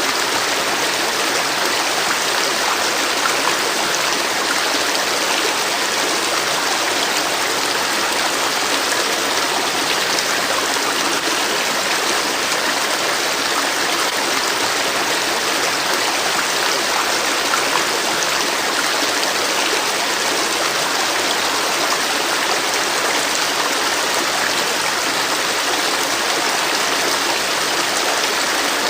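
Flowing river: a steady, unbroken rush of water, mostly bright hiss with little low rumble.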